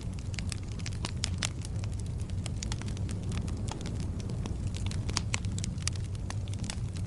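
Wood fire burning in a fireplace: a steady low rumble of the flames with frequent sharp, irregular crackles and pops of burning logs.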